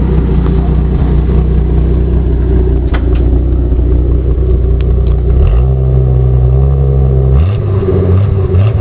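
Engine running through a homemade paint-can exhaust muffler, idling loudly; about five and a half seconds in the revs step up and hold, then drop back and turn rougher about two seconds later.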